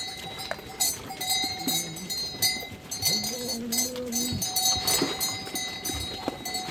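A flock of sheep and goats with their neck bells clinking and ringing, and a long low bleat about three seconds in.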